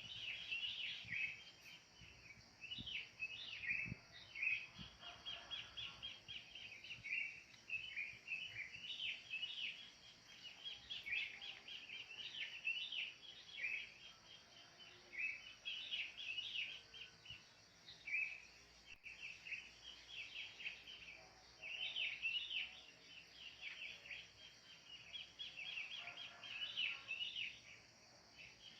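Wild birds chirping in rapid, overlapping bursts of high calls, over a steady high hiss.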